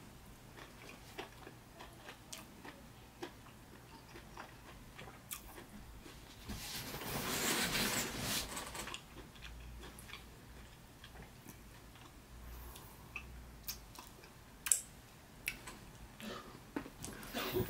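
Close-miked chewing of a mouthful of stewed beef, with wet mouth clicks and smacks scattered throughout. A louder two-second rush of noise comes near the middle.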